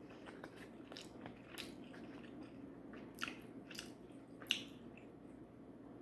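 A person chewing and biting food close to the microphone: faint mouth sounds with a few short, sharp smacks and clicks.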